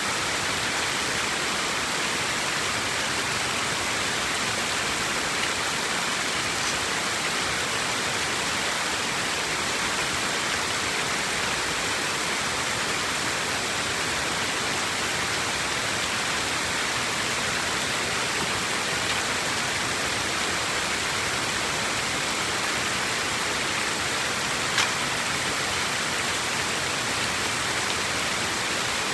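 Steady rush of water pouring through a drain after a blockage of floating plants has been cleared, with one short click near the end.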